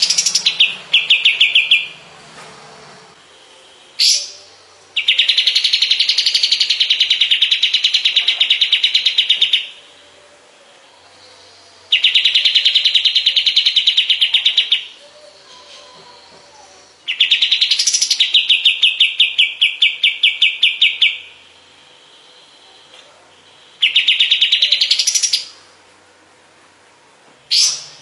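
Kapas tembak songbird singing: loud bouts of very fast, rattling trills of rapidly repeated notes, each bout lasting a few seconds with short pauses between. Twice a single sharp, quick upward note is heard on its own.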